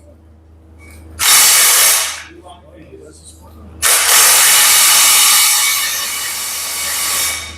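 Loud hissing in two bursts, a short one about a second in and a longer one of about three and a half seconds starting about four seconds in, like a jet of pressurised air from a workshop air line.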